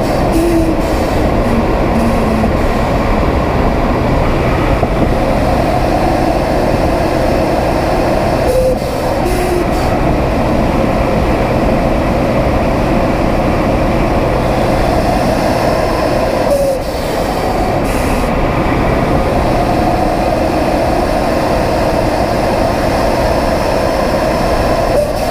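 Cabin sound of a 2011 BMW 335is's N54 twin-turbo inline-six under light, steady load, a loud continuous drone with the odd noise that appeared after fitting aftermarket turbos and inlets, which the owner wonders could be a boost leak or a loose wastegate. The level dips briefly twice.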